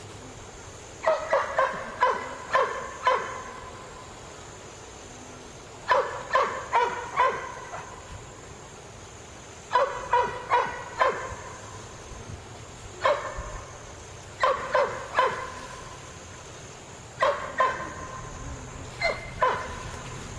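A dog barking in bursts of two to five quick barks, repeated every few seconds, over a steady background hiss.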